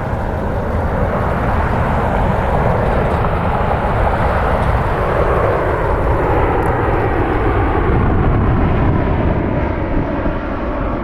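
Jet airliner's engines at high thrust on departure, a loud steady rush whose pitch slowly drops partway through as the jet goes by.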